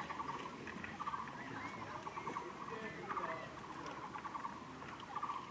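Outdoor animal calls: short, rapid trills repeating about once a second, with a few curling whistled chirps over them, most likely birds.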